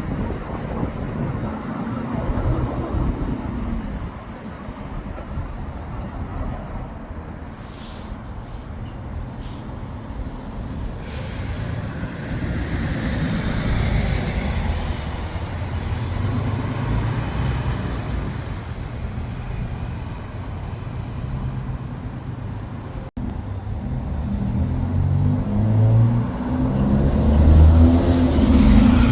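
Diesel coach engines running, with a hiss of air brakes about eleven seconds in. Near the end a coach engine grows louder as it comes close.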